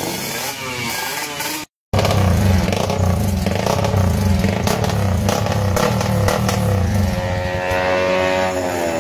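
Race-prepared Yamaha Exciter 150 single-cylinder four-stroke engine running on a stand while it is being retuned, the tune not yet right. Near the end it revs up and falls back.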